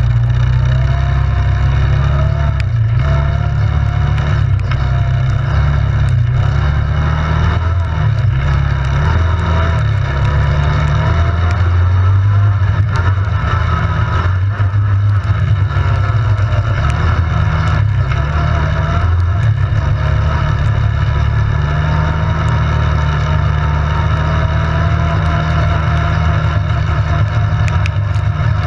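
ATV engine running under way, its pitch rising and falling with the throttle over a heavy low rumble, with scattered short knocks throughout.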